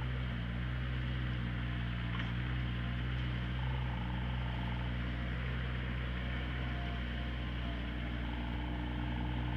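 Diesel engine of heavy machinery running steadily at a constant speed, with a faint higher whine coming in twice.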